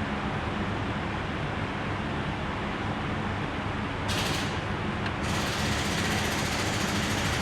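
Jaguar XJ8's V8 engine running steadily with a low hum, now that the fuel-pump fault behind its no-start is fixed. A loud hiss cuts in briefly about four seconds in, then returns about a second later and carries on.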